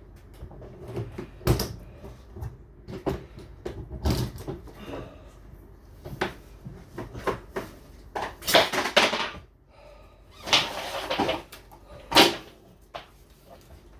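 Irregular knocks and bumps with two longer scraping stretches past the middle, as a refrigerator is handled and shifted while someone tries to tip it.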